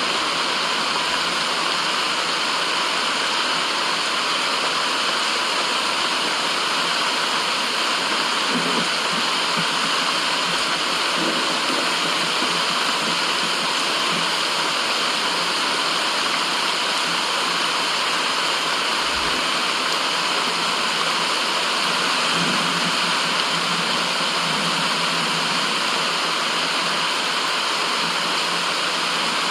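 Steady white noise: an even, unchanging rushing hiss like falling water, with almost no deep bass.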